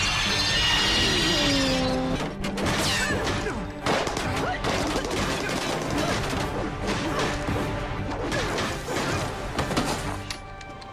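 Action-scene sound effects: a rapid run of sharp hits, crashes and shattering over background music, starting about two seconds in and easing off near the end.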